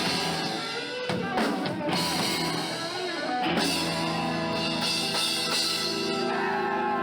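Rock band playing live, with drum kit and guitar: sharp drum hits in the first few seconds, then held chords.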